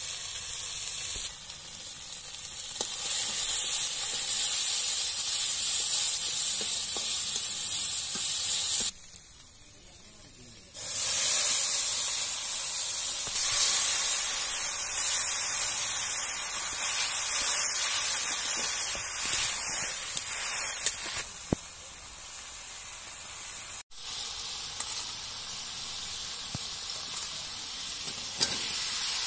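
Onions and spice paste sizzling in hot oil in an iron kadai, stirred with a metal spatula. The sizzle cuts in and out abruptly several times, with a quieter stretch about nine seconds in.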